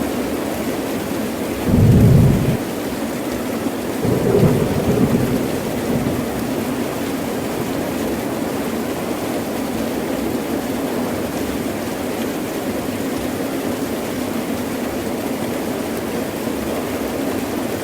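Heavy rain falling steadily, with thunder rumbling twice: a loud low rumble about two seconds in and another lasting longer about four seconds in.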